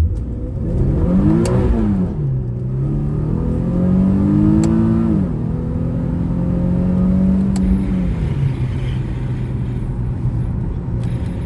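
Infiniti G37 Coupe S's V6 accelerating hard from inside the cabin: the engine note climbs, drops at an upshift, climbs again and drops at a second upshift, then eases off into a steady cruise.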